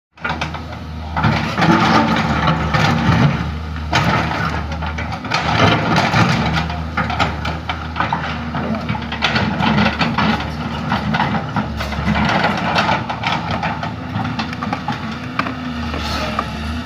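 Excavator's engine running steadily under a low hum, with shifting mechanical noise and occasional knocks over it as the machine works.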